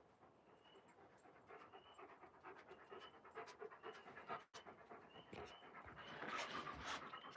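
An Alaskan Malamute panting softly and rhythmically, growing louder and closer about six seconds in.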